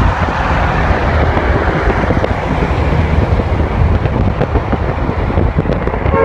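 Steady loud rumble and rushing noise of a train running by, with wind buffeting the microphone.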